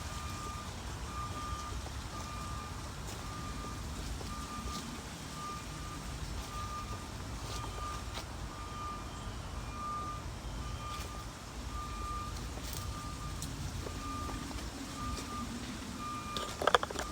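Vehicle backup alarm sounding from a reversing vehicle, the same short beep repeating about twice a second. There is a brief louder sound near the end.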